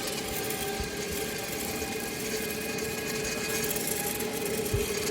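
A steady mechanical hum that holds one pitch throughout, over a background of noise.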